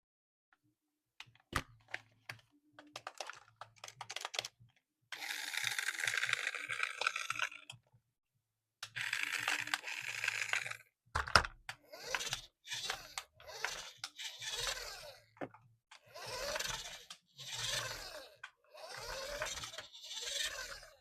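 Hands handling a toy and its packaging: a run of small clicks, then two long rustling scrapes, a sharp knock about eleven seconds in, and then short scraping strokes about one a second.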